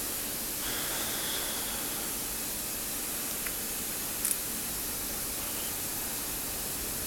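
Steady hiss of background noise, with two faint light clicks about three and a half and four seconds in.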